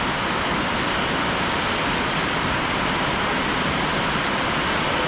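A steady, loud rushing noise with no distinct events in it.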